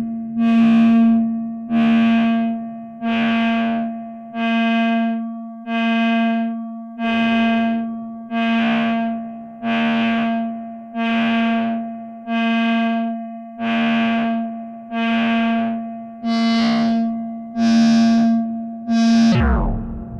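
Arturia Buchla Easel V software synthesizer repeating a single note about once every 1.2 seconds, each note starting sharply and fading away, its tone turning brighter and duller from note to note. Near the end the pitch sweeps downward.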